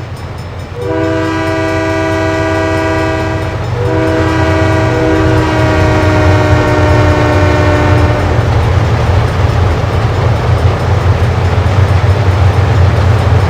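Diesel locomotive air horn sounding a chord in two long blasts, the second ending about eight seconds in, over the heavy low rumble of many diesel locomotives running together in a long light-engine consist, which keeps on and grows louder after the horn stops.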